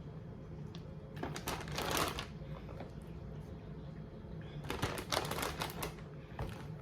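Large plastic zip-top bag crinkling and rustling as it is handled and filled with chicken, in two bouts, about a second in and again near five seconds, over a steady low hum.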